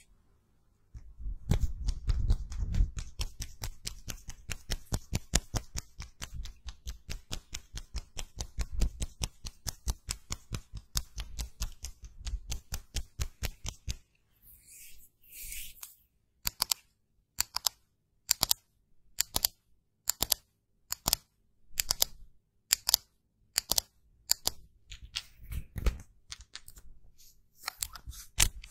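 A fast, even run of sharp clicks, about five or six a second, for most of the first half. After a short pause, slower sharp clicks follow, a little under two a second.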